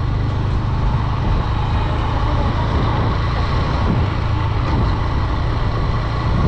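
Steady rush of wind and road noise while riding a Honda Dream 110 motorcycle, its 110cc single-cylinder engine running beneath it at a constant pace, heaviest in the low rumble.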